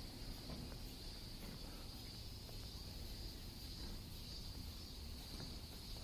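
A steady, high-pitched chorus of insects chirring without a break, over a faint low rumble.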